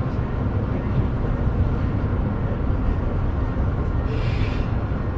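KiHa 125 diesel railcar running with a steady low rumble of its diesel engine, with a short air hiss about four seconds in.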